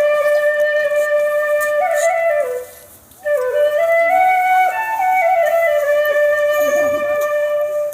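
Background music: a solo flute playing a slow melody that moves in small steps, with a brief pause about three seconds in.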